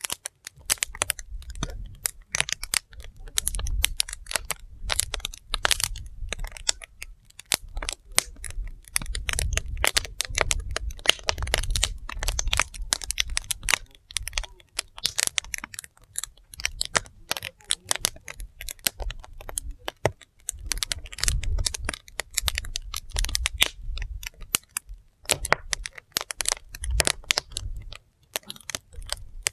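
Firewood fire crackling, with dense, irregular snaps and pops and a low rumble underneath.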